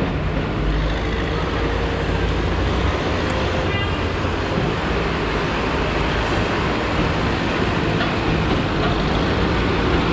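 Street traffic: a vehicle engine running with a steady low hum over general road noise.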